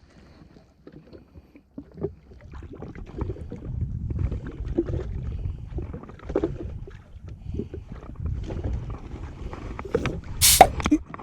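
Water slapping and knocking against the hull of a jet ski drifting on a calm sea, with scattered irregular knocks. A brief, louder rushing noise comes near the end.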